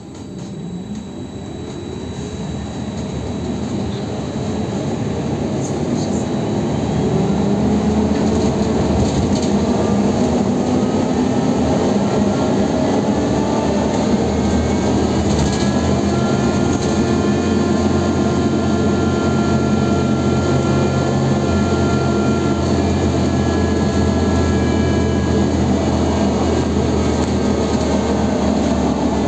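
BKM 321 trolleybus's electric traction drive running as the trolleybus pulls away and speeds up: a whine of several tones climbs slowly in pitch over rumbling running noise, growing louder for the first several seconds. In the second half the whine levels off to a steady pitch at cruising speed.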